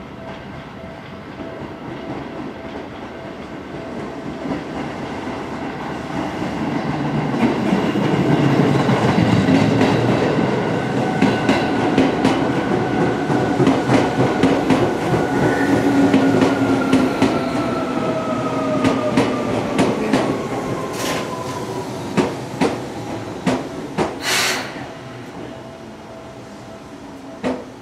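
Seibu 2000-series electric train pulling into the station: wheels clacking over the rail joints and a motor whine falling in pitch as it brakes. It ends in a few clanks and a short hiss as it comes to a stop.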